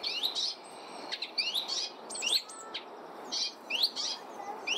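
Small birds chirping: a quick series of short, high, rising call notes, several to a second.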